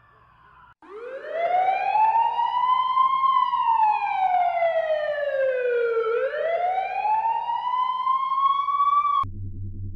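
Siren wailing. It winds up from a low pitch to a high one, falls slowly, then rises again, and cuts off suddenly near the end, where a low steady hum starts.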